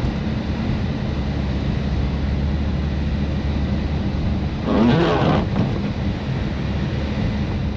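BMW F80 M3's twin-turbo straight-six, with catless downpipes and an open-valve exhaust, droning steadily at highway cruise over tyre and road noise. A brief louder burst comes about five seconds in.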